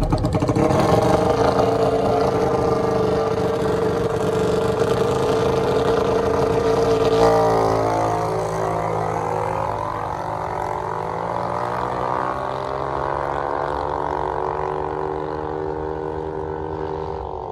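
Minibike engines running at high, steady revs during a drag run. About seven seconds in, the pitch drops and the sound slowly fades as the bikes move away.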